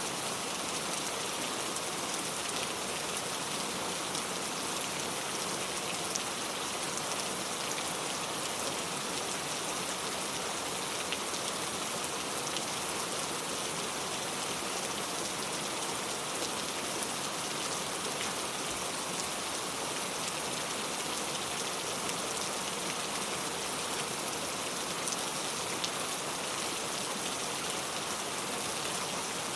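Steady rainfall, with a continuous hiss and scattered drop ticks.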